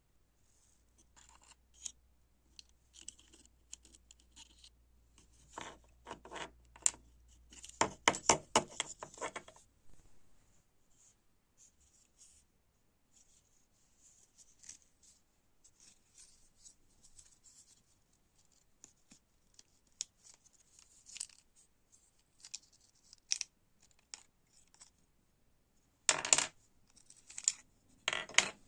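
Hand-work on small parts: intermittent scraping, scratching and small clicks, with a dense run of rapid clicks about a third of the way in and a few louder knocks near the end.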